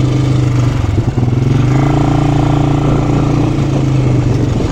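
Quad bike engine running steadily while riding, with a short dip in level about a second in.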